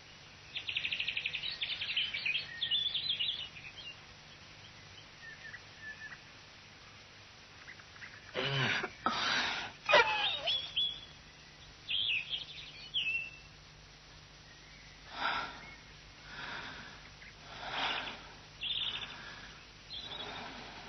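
Cartoon morning birdsong: birds chirping in a rapid high trill, with more short chirps later. A louder animal call comes a little before the middle, and the last few seconds hold a run of soft sniffs, about one every second and a half.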